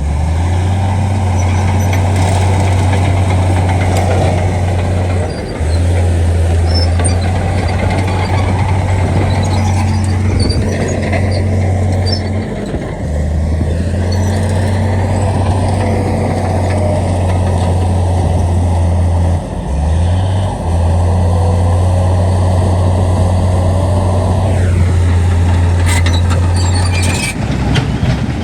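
Heavy diesel engines of construction machinery running, a steady low drone that breaks off briefly a few times.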